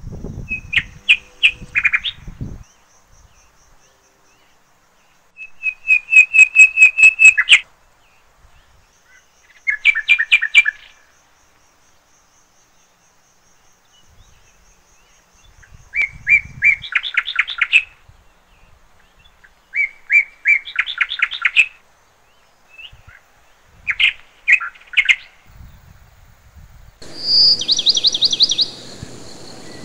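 A bird singing loud, rapid trilled phrases of about two seconds each, repeated every few seconds, with a faint, thin, high pulsing call underneath through the first half. Near the end the song turns to a higher, faster trill.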